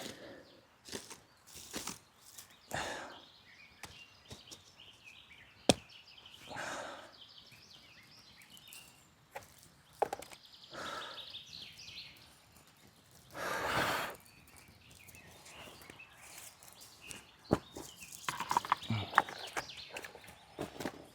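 Irregular rustling, crunching and knocking of twigs and dry leaves being handled on the ground, with a few sharp snaps of sticks and a longer rustle about two-thirds of the way through.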